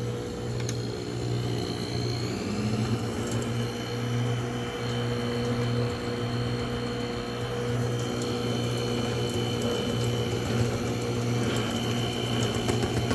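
Electric mixer running steadily, its motor humming as it blends cheesecake crust mix with butter.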